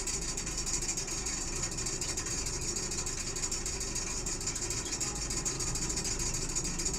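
A steady motor hum with a constant hiss, unchanging throughout.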